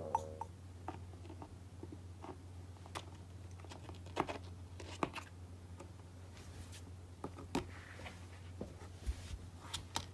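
Light, irregular taps and scratches of a young kitten's paws moving about on cardboard, over a low steady hum.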